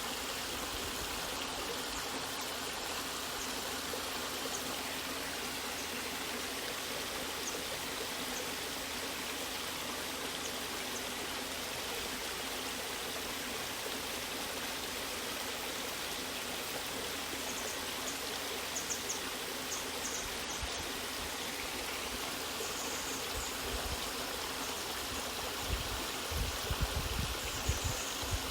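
Waterfall water rushing steadily, an even hiss of falling and flowing water. A few low thumps come near the end.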